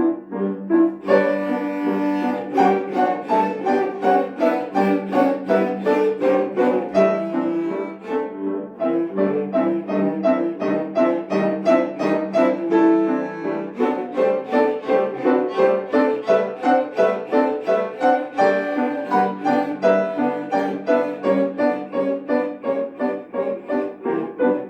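Three cellos playing with piano accompaniment, a continuous passage of quick notes.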